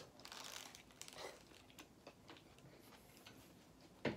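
Faint mouth sounds of a man chewing a bite of burger, with light crinkles from its paper wrapper and one brief louder sound near the end.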